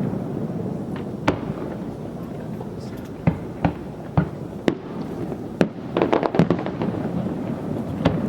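Fireworks going off: a steady low rumble of echoing booms, with sharp single bangs every second or so, a quick run of crackling pops about six seconds in, and another bang near the end.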